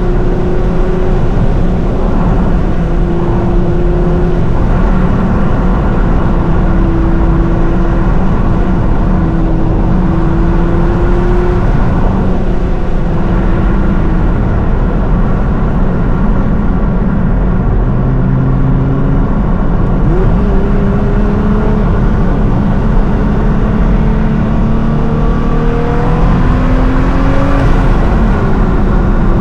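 Nissan GT-R R35's twin-turbo V6, tuned to about 750 hp, driving at varying throttle with its engine note rising and falling. About two-thirds of the way through, the revs climb steadily for several seconds, then drop back near the end.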